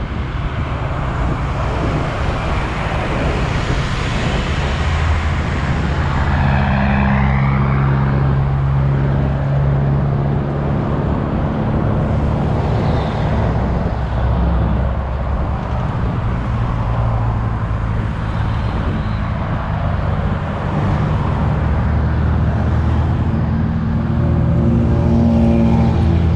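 Motor traffic on a highway: vehicle engines humming steadily over tyre and road noise, with an engine rising in pitch near the end.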